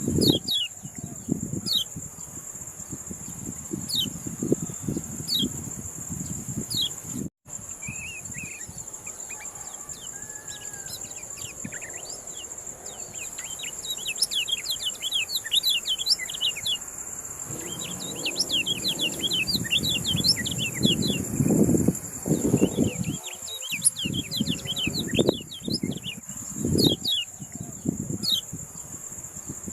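Kecial kuning songbird chirping in rapid runs of quick, high, falling notes, densest about halfway through and again near the end. A steady high whine, like an insect, runs underneath, with low rumbles and knocks.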